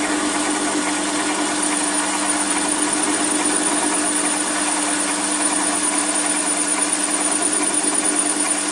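Small metal lathe running with its power feed engaged, the tool taking a cut along the workpiece: a steady motor and gear hum with a constant high whine.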